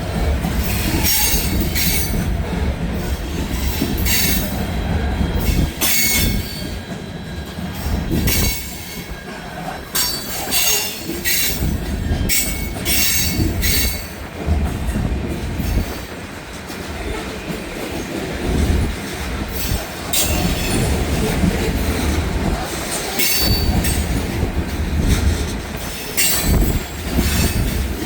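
Freight train of covered hopper cars loaded with potash rolling past, with a heavy low rumble of wheels on rail and repeated short high-pitched wheel squeals. Strong wind buffets the microphone.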